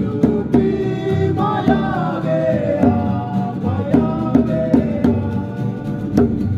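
Music with voices singing or chanting, their pitches sliding up and down, over sharp percussive beats about every half second.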